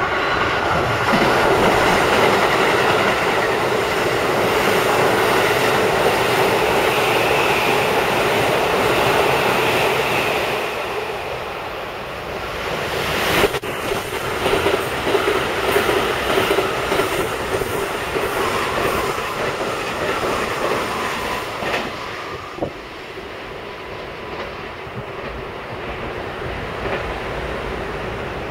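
A Keikyu electric train running through a curved station at speed: a loud rush of running noise with steady wheel squeal from the curve. About halfway through comes a sharp click, then a rhythmic clatter of wheels over rail joints that gradually fades.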